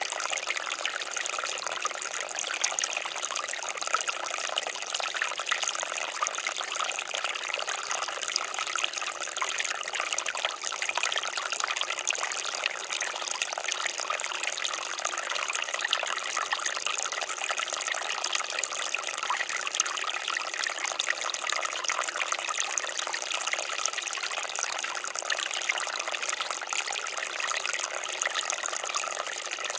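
Water fountain splashing steadily, an even, continuous trickling and splashing of falling water.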